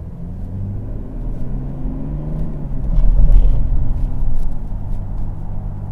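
Mercedes GLS 400d's inline-six diesel engine and road noise heard inside the cabin while driving. The engine note rises and swells, loudest about three seconds in, then settles back.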